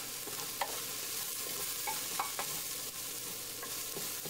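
Chopped garlic, ginger, green onions and ground spices sizzling in oil in a stainless steel pressure cooker pot, stirred with a wooden spoon that scrapes and knocks against the pot a few times.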